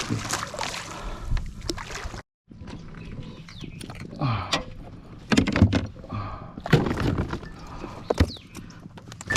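Water splashing and sloshing around a kayak, then scattered knocks and clatter on the hull. The sound drops out briefly about two seconds in.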